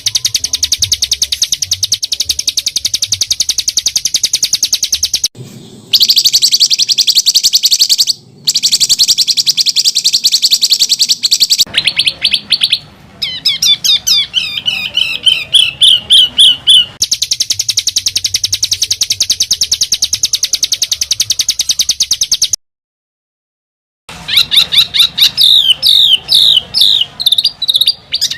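Songbird 'masteran' song: long runs of very rapid, dense, harsh trilling, broken a few times by brief cuts, with stretches of repeated down-slurred whistled notes about halfway through and again near the end.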